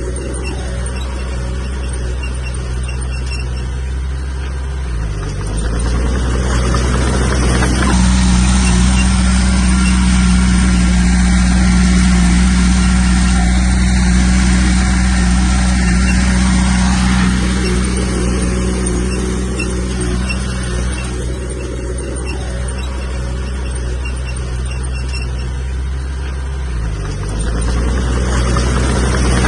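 Bulldozer's diesel engine running under load. Its pitch dips briefly and recovers twice, about five seconds in and near the end, and between about eight and seventeen seconds it runs louder and higher as it works harder.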